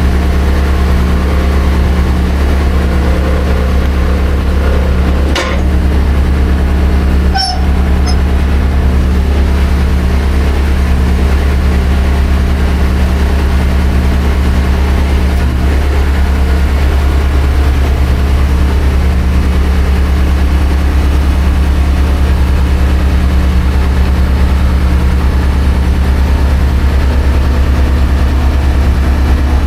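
Heavy diesel engine running steadily with a deep, even drone. Two brief knocks come about two seconds apart, around five to seven seconds in.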